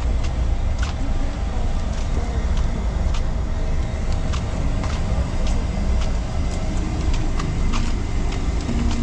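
Steady low outdoor rumble of street noise, with faint scattered clicks.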